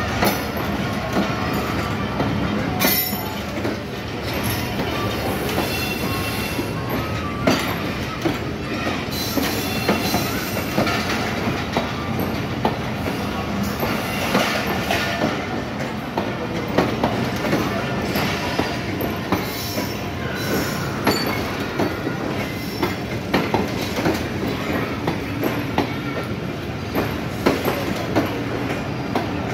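Pakistan Railways passenger coaches rolling past close by, their wheels clacking irregularly over rail joints above a steady rumble, with some thin wheel squeal.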